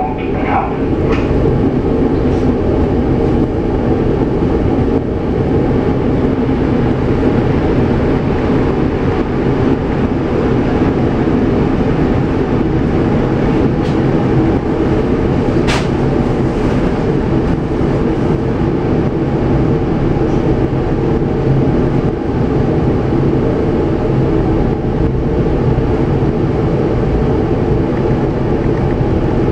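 Mat '64 Plan V electric multiple unit running, heard from inside the carriage by the doors. Its wheels rumble steadily on the track and its motor hum holds several steady tones. One sharp click comes about halfway through.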